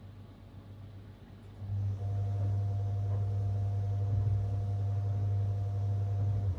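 Whirlpool top-loading washing machine's motor starting about two seconds in and running steadily for about five seconds with a hum and a whine, then cutting off. It is a short burst of agitation during a soak.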